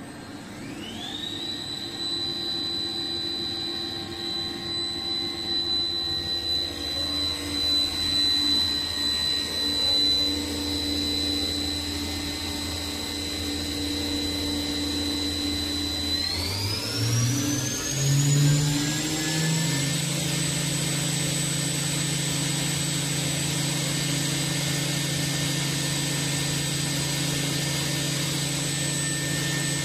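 CNC vertical machining center's spindle running up to speed: a whine climbs quickly to a steady high pitch and holds. About sixteen seconds in it climbs again to a higher steady pitch as the spindle steps up to a faster speed, with a low hum rising along with it.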